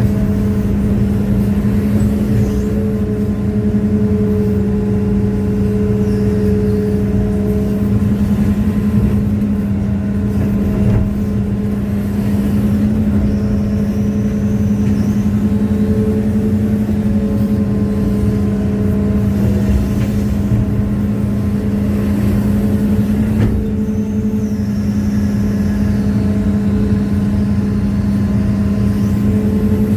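Hitachi excavator's diesel engine running steadily at a constant pitch, with fainter higher tones that come and go over it.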